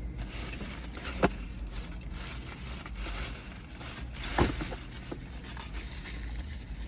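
Eating noises: chewing and handling of fried chicken and its paper wrapping, with two short sharp clicks, about a second in and about four and a half seconds in, over a low steady rumble.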